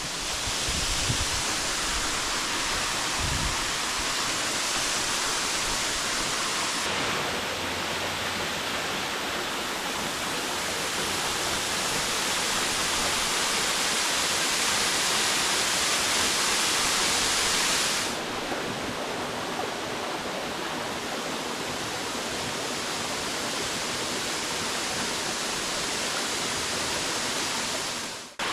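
Waterfall rushing steadily over rock ledges. Its tone changes abruptly about seven seconds in and again near eighteen seconds.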